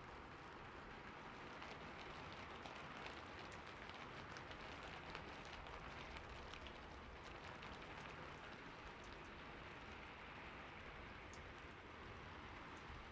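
Steady rain falling on a roof: an even, soft hiss dotted with many small drop ticks, swelling slightly in the middle.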